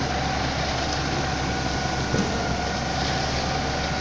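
Concrete pump truck and mixer truck running steadily: a constant engine drone with a steady whine over it and a few light knocks.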